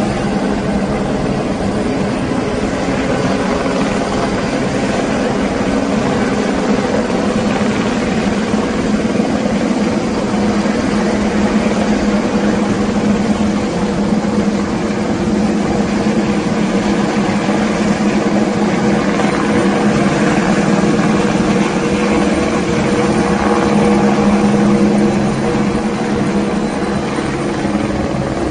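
A steady engine drone with a constant low hum, growing slightly louder about three quarters of the way through.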